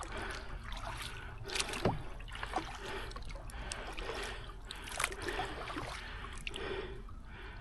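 Double-bladed kayak paddle dipping into the water on alternate sides, with small splashes and water trickling and dripping off the blades.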